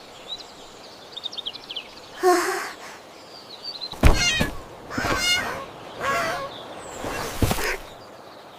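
A series of short animal calls: high bird-like chirps, then louder warbling, wavering calls a few seconds in.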